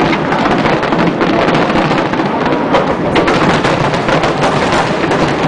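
Large fireworks display heard at a distance, a dense, continuous barrage of booms and crackling with many rapid pops overlapping, echoing across the harbour.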